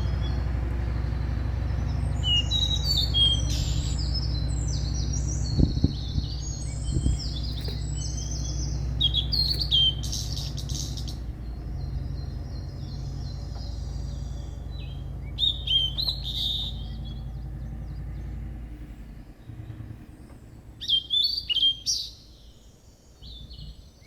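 Small birds chirping and trilling in quick runs of high notes, over a steady low rumble that fades out near the end.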